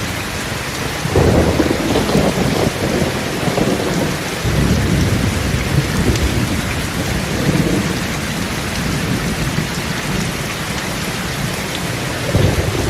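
Heavy rain falling steadily, with low rumbles swelling up about a second in, again around four and a half seconds in, and near the end.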